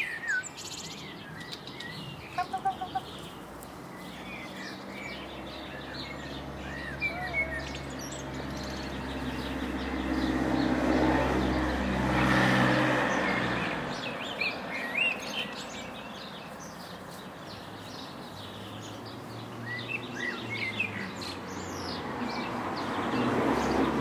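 Small birds chirping and singing in short calls, with a low mechanical hum that swells and fades away in the middle.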